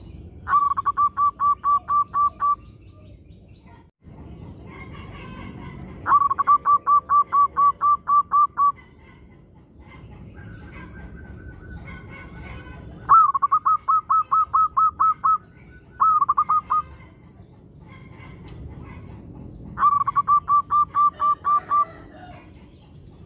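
Local perkutut (zebra dove) singing: five bouts of rapid, staccato cooing notes, each bout a quick even run of about ten notes lasting around two seconds, the fourth cut short to a few notes.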